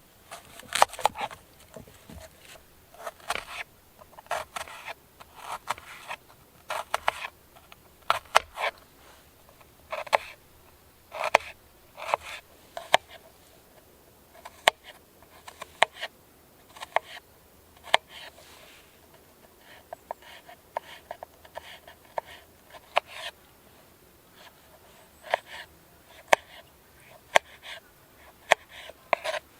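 Cooking utensils knocking and clicking in an irregular run of short, sharp strikes, about one or two a second, during camp-cooking preparation.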